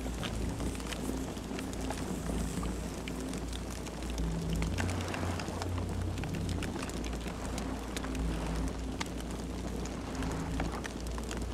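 Campfire crackling: scattered sharp pops and snaps of burning wood over a low, steady rumble of flames.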